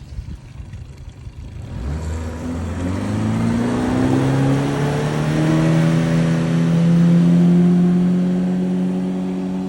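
Motorboat engine opening up about two seconds in, its pitch rising for several seconds as it speeds up, then running steadily at high speed.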